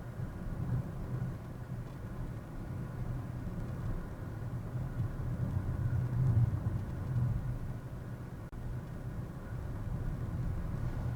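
A car on the move, heard through a dashcam: a steady low rumble of road and engine noise, with a very brief dropout about eight seconds in.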